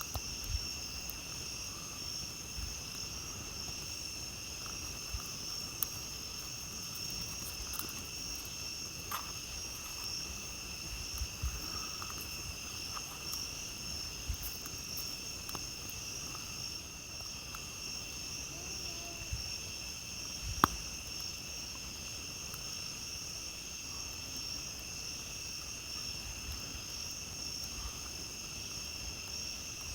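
Steady night-time insect chorus, crickets trilling at several high pitches, with scattered crackles and pops from a campfire. One sharp pop about two-thirds of the way through stands out as the loudest.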